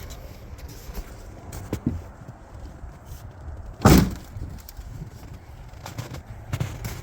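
A single loud thump about four seconds in, with a few lighter knocks around it, over a low steady rumble.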